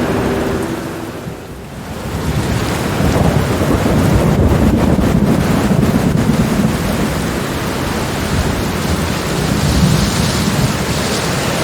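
Heavy rain with thunder: a deep rolling rumble builds about two seconds in and carries on under the steady rain hiss. A few sustained soft music notes fade out at the very start.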